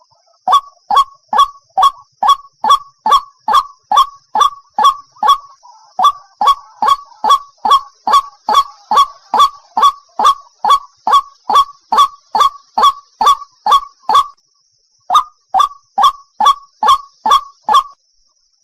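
White-breasted waterhen (ruak-ruak) lure call, a harsh honking note repeated about twice a second, each note sliding downward. The run breaks off briefly about fourteen seconds in, then resumes, with another short break near the end.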